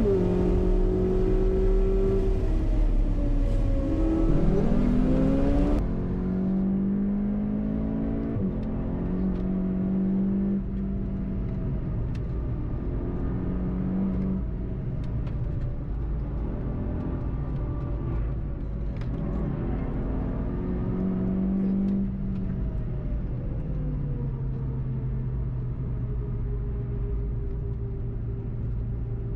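Volkswagen Golf GTI TCR's turbocharged four-cylinder engine heard from inside the car under track driving. The revs fall, then climb sharply about four seconds in, run through shifts and steady stretches, and near the end drop away and settle to a lower steady note as the car slows.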